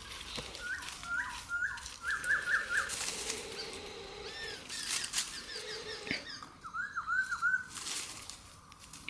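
Small birds chirping in short, quickly repeated runs of hooked notes, several series one after another, with brief rustles in between.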